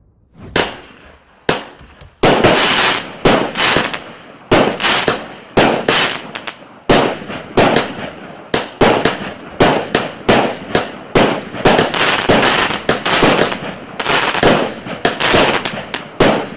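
A 25-shot, 0.8-inch consumer firework cake ('Maracas' EC260) firing in rapid succession: sharp shots about two a second, each trailing off briefly.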